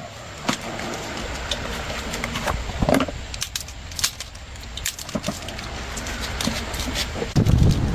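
Scattered sharp clicks and clinks of tools and metal parts being handled, with a louder low rumble near the end.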